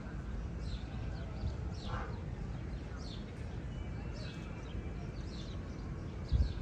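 Small birds chirping, short downward-sliding chirps repeating about once or twice a second, over a steady low wind rumble.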